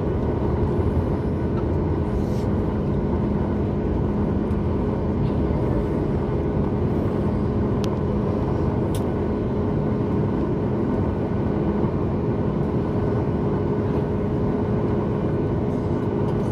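Steady cabin noise of a Boeing 737 MAX 8 airliner: the even rush of its CFM LEAP-1B engines and airflow, with a constant low hum and a few faint ticks.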